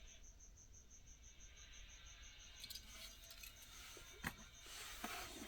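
Quiet handling of a die-cast model car: a few small clicks and a short rustle in the second half. Behind it a cricket chirps steadily, a faint fast pulsing.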